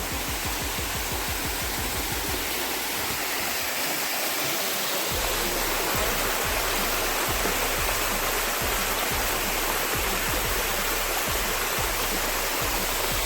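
A stream rushing over rocks, a steady loud hiss of water, with background music's bass beat underneath that drops out for a couple of seconds about three seconds in.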